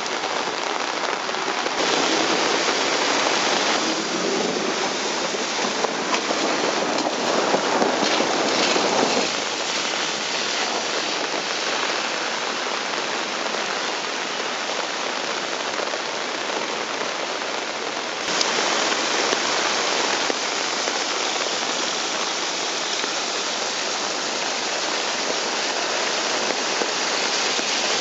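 Heavy rain pouring down onto street pavement, a steady hiss that shifts in level a few times, about 2, 9 and 18 seconds in.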